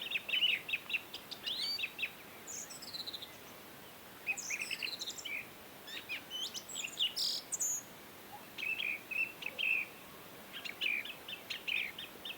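Several wild birds chirping and singing: rapid runs of short chirps, sliding whistled notes that fall in pitch, and a few high sharp calls, over a faint steady hiss.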